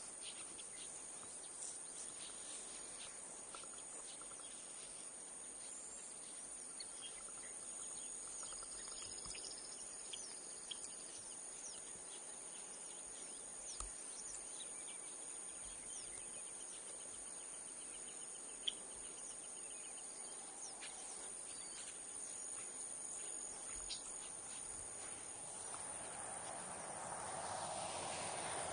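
Faint outdoor ambience: a steady high-pitched insect drone with scattered short bird chirps and a few isolated clicks. A broad rushing noise swells over the last few seconds.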